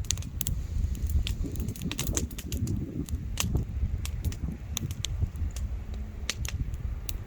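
Wood bonfire crackling: irregular sharp pops and snaps from the burning wood, a few a second, over a low steady rumble.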